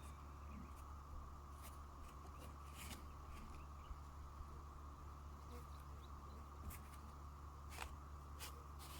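Faint steady background hum with a few short, sharp clicks scattered through it.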